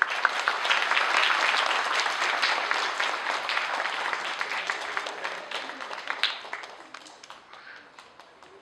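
Audience applauding, starting at once and dying away over the last few seconds.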